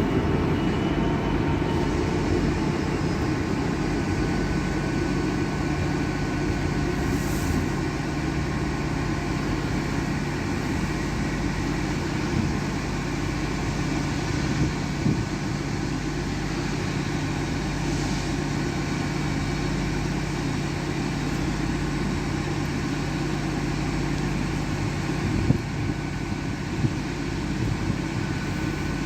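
Diesel train engine running steadily, a constant low hum with a faint steady whine above it.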